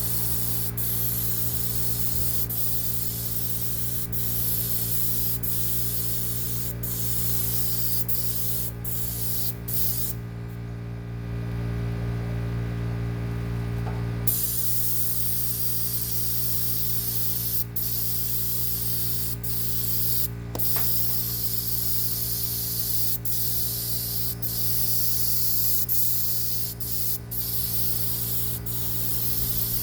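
Paint spray gun spraying green paint onto a jon boat's aluminium hull in repeated passes: a steady hiss that stops briefly many times and pauses for about four seconds near the middle. Under it runs a steady mechanical hum.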